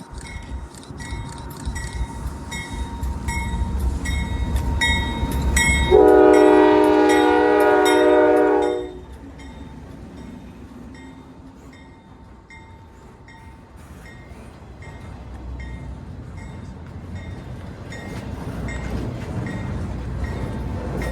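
A train on the line with a low rumble and a regular clickety-clack of wheels over the rails, about two clicks a second. About six seconds in, the locomotive's horn sounds one long multi-note chord for about three seconds, then the rumble and clicking go on, growing louder near the end.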